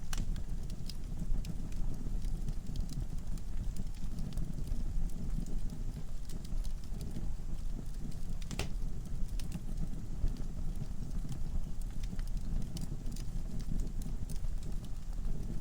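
Wood fire in a fireplace burning with a low steady rumble and irregular crackles and pops from the logs, one louder pop a little past halfway.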